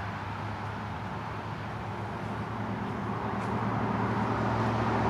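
Road traffic, a steady rush of passing cars, swelling gradually louder over the last couple of seconds as a vehicle approaches.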